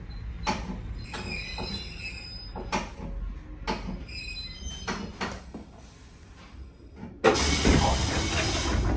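Nankai 2200-series train car slowing into a station over a low rumble, with scattered clicks and a brief high brake squeal. About seven seconds in, a sudden loud hiss of air starts and keeps going as the train stops.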